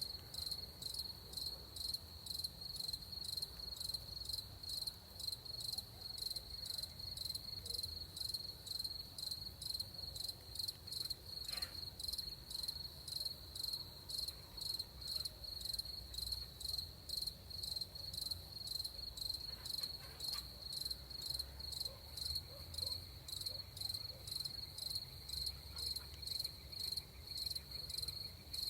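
Crickets chirping in a steady, even, high-pitched rhythm, with a faint low rumble underneath.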